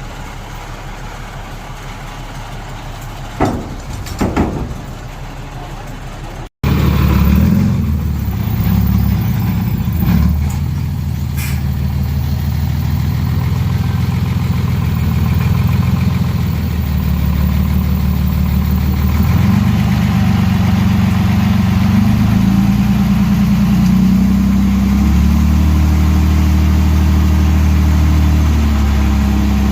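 Heavy diesel engine of an earth-moving machine running, with two sharp knocks a few seconds in. After a sudden cut it is louder, its pitch rising and falling in steps as the machine works.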